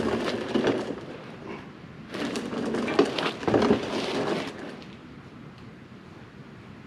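Metal skid pan scraping and clattering against the underside of an articulated dump truck as it is wrestled up into place by hand: a short rough burst at the start and a longer one about two seconds in, then quieter.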